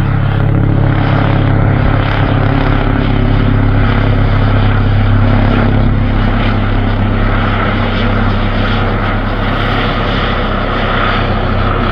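Air ambulance helicopter flying past close by: steady, loud rotor and engine noise.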